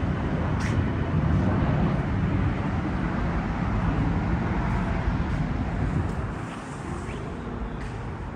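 Steady low rumble of city traffic noise, easing a little about six seconds in.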